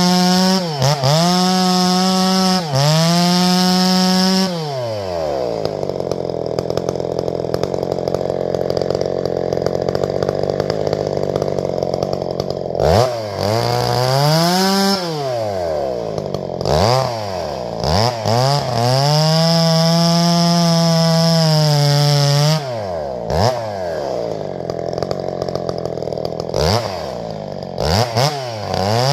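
Two-stroke chainsaw running at full throttle, briefly dipping and picking back up several times. During two long stretches, one early and one late, its pitch sits lower under steady sawing noise, as the chain pulls through wood under load.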